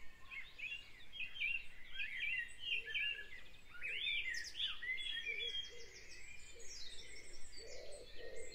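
Birds chirping faintly in the background: a quick series of short chirps that bend up and down in pitch, then some higher falling notes, with fainter lower calls near the end.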